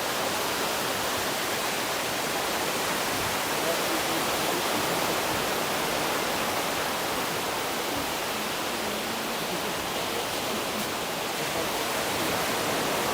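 Steady hiss of sea surf washing on a sandy beach, even and unbroken.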